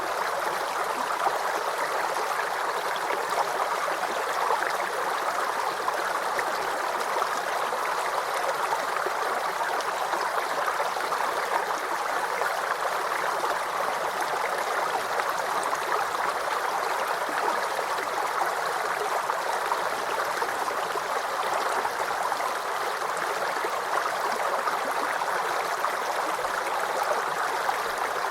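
Small stream or brook flowing steadily, a continuous babbling and gurgling of water over stones.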